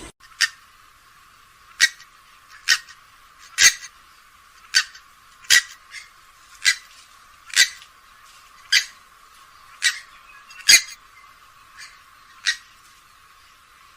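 Grey-headed swamphen giving a series of short, sharp calls, about one a second, a dozen or so in all.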